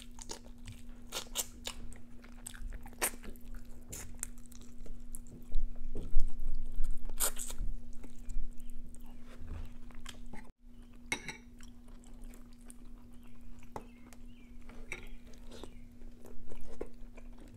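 Close-up chewing and biting on bone-in native chicken eaten by hand: irregular crunches and mouth clicks, loudest around six to eight seconds in, over a steady low hum.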